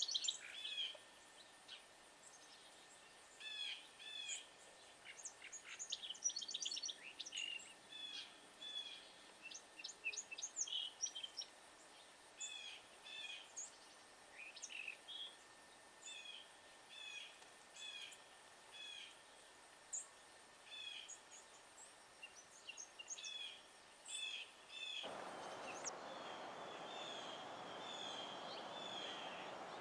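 Wild songbirds giving short, sharp alarm calls over and over, often in pairs, announcing a predator nearby. A steady background noise comes in about 25 seconds in, under the continuing calls.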